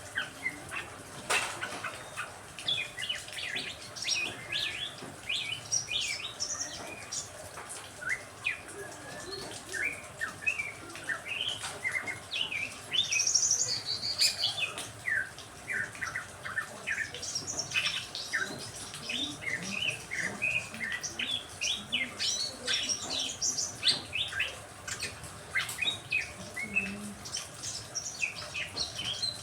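Several songbirds chirping and calling busily, with many short, overlapping chirps and whistles.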